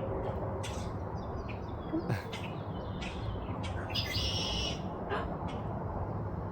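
Birds chirping: short, sharp calls scattered through, and a longer, richer call about four seconds in, over a steady low background rumble.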